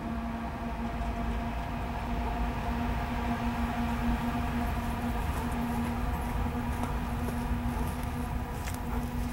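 Coal train rolling by: a steady low rumble of wheels on rail with a steady hum over it.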